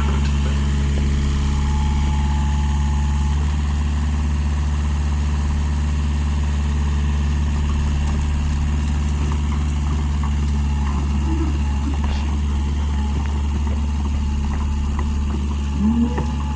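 Engine idling at a steady speed: a deep, even hum that holds unchanged throughout.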